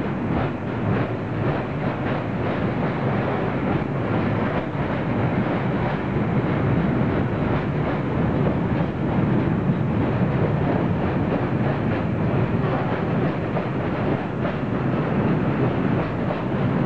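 Freight train of covered hopper wagons rolling past at speed: a steady rumble and rattle of steel wheels on the rails, with some clicks as the wheels pass over the track.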